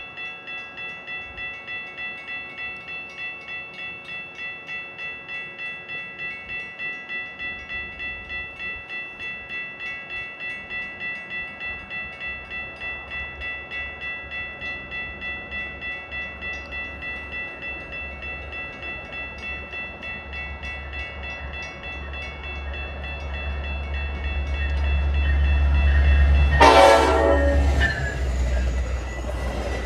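Warning bell ringing in an even pulse while a Metra train that is not stopping approaches with a rising rumble. About 27 seconds in, a short, loud horn blast sounds as the train passes through the station at speed, and the rumble goes on.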